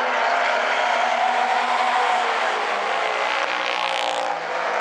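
A field of late model stock cars running at race speed around a short oval, several engine notes overlapping in a steady loud drone. A brief rush of noise comes about four seconds in.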